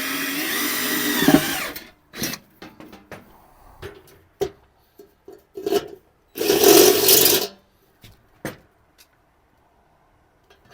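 Power drill with a hole saw cutting through the steel bottom of an ammo can, its pitch sliding as it works under load, stopping about two seconds in. Scattered knocks and clicks follow, with a second short, loud, rasping burst around the middle.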